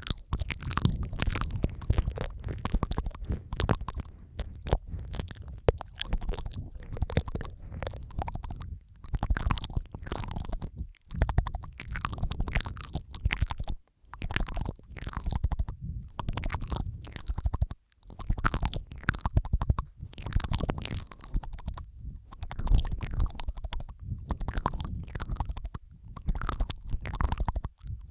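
Layered ASMR mouth sounds recorded close on a microphone: a continuous stream of wet clicks, smacks and slurps with no pauses longer than a moment.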